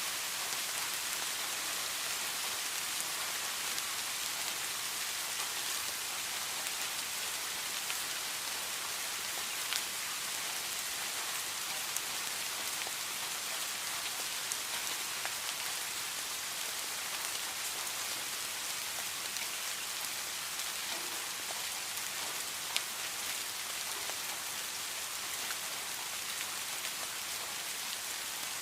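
Heavy rain falling in a steady, even hiss, with a few sharper drop hits standing out now and then.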